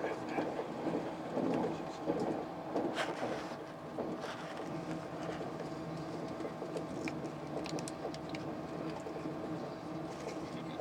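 Steady running noise of a passenger train heard inside the carriage, a hum with a few steady tones. Passengers' voices are faintly heard in the first few seconds.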